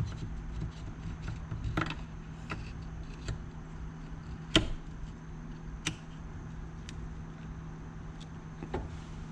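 Scattered metal clicks and light knocks as an oiled shift shaft is slid into an ATV engine's crankcase, a few sharp taps a second or more apart, over a steady low hum.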